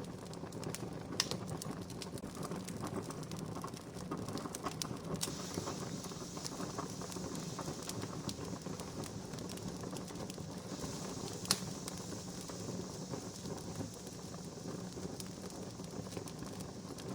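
Wood campfire crackling steadily, with frequent small snaps and two sharper pops, one about a second in and one about eleven seconds in.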